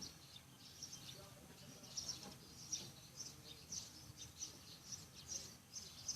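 Small birds chirping: short high chirps repeated about twice a second over faint background hum.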